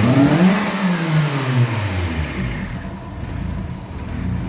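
Toyota Sienta XP170's 2NR-FE inline-four revved through an aftermarket ProCircuit muffler and Hyperflow L resonator exhaust: the revs peak just after the start, fall away over about two seconds, and the engine settles back to a steady idle.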